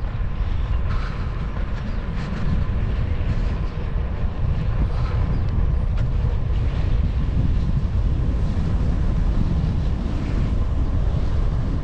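Wind buffeting the microphone of a camera riding along on a moving bicycle: a steady, loud low rumble.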